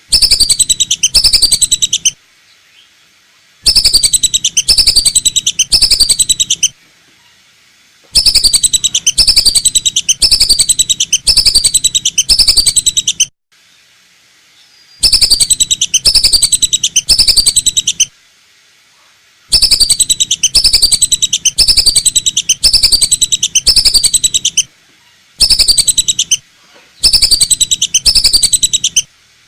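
Recorded calls of the lesser whistling duck played loud as a lure: runs of quick, falling whistles, several in a row, broken by short pauses.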